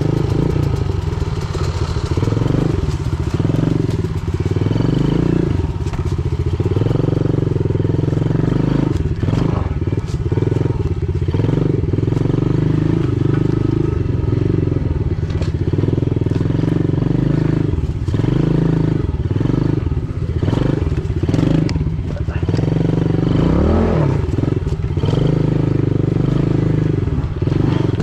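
Pit bike engine running while the bike is ridden along a trail, its revs rising and falling with the throttle. Knocks and rattles come from the bike over rough ground.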